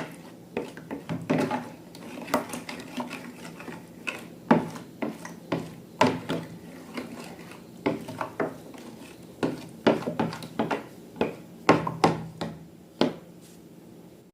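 Irregular clicks, taps and scraping of utensils and containers being handled while slime is made, over a faint steady hum; the sound cuts off abruptly at the end.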